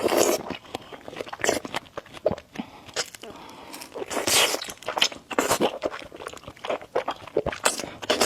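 Close-up eating sounds of a person chewing noodles and egg, with many short wet mouth clicks and smacks and a few brief noisy slurps.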